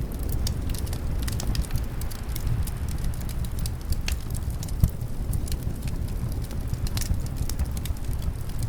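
Wood fire crackling in a fireplace, with frequent small sharp pops and one louder pop about five seconds in, over a steady low rumble of wind.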